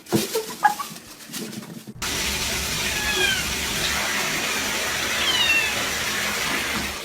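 A cat meowing twice, short falling cries, over a steady rush of running water that starts abruptly about two seconds in, after a few knocks.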